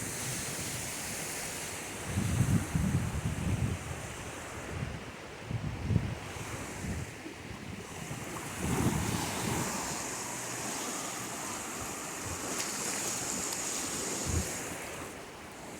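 Ocean waves washing on a beach, a steady hiss of surf, with gusts of wind buffeting the microphone in low rumbles several times.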